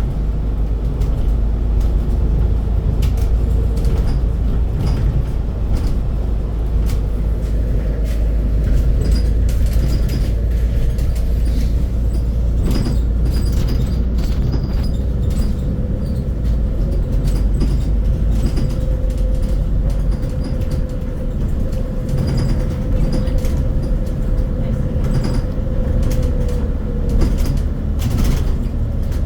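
Scania CN280UB Citywide city bus running, with a steady low engine rumble and a held whine through most of the stretch. Short knocks and rattles come scattered throughout.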